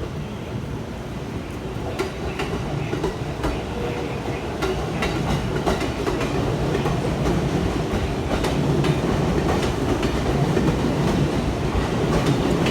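Tokyo Metro Tozai Line train running along the track, a steady rumble that grows louder, with wheels clicking over rail joints from about two seconds in.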